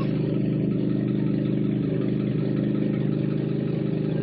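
Truck engine running steadily at one speed, an even drone without revving.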